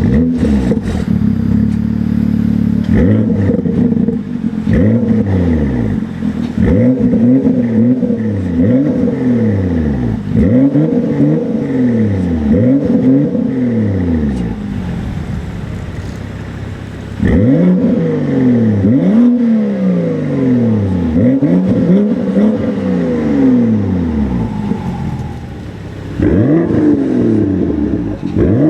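2016 BMW M2's turbocharged inline-six, breathing through a Guerrilla bypass exhaust, holds a steady note for a few seconds and is then revved over and over in quick blips, about one a second. There are two short pauses, one about halfway through and one near the end.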